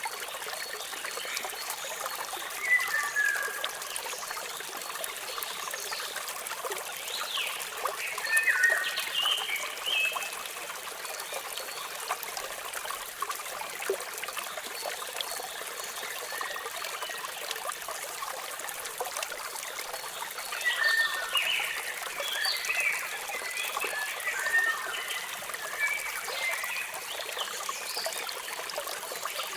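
Steady rushing water of a waterfall, with small birds chirping over it in short bursts: a few near the start, a cluster about a third of the way in, and a longer busy spell in the last third.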